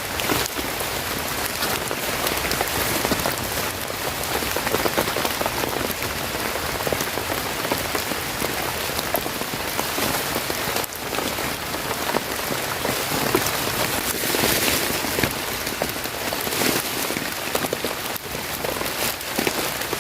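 Steady rain falling and pattering on a surface, an even dense hiss of many small drops.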